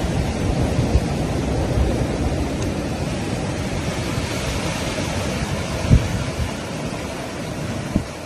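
Strong blizzard wind blowing steadily, buffeting the microphone with low thumps, the hardest gust about six seconds in.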